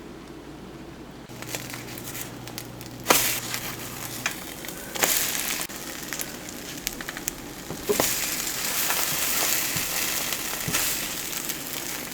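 Food sizzling in a frying pan, with scattered knocks and clicks; the sizzle becomes a steady hiss about eight seconds in.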